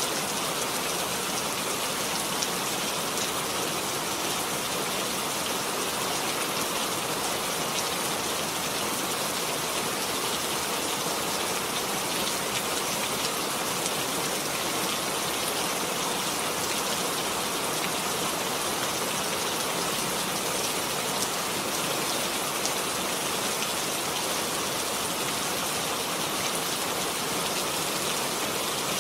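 Steady rain falling, an even hiss of many drops on a surface, with fine drop ticks.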